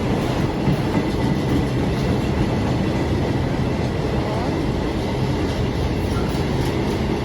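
Long freight train's wagons rolling past close by, a steady unbroken rumble of steel wheels on the rails.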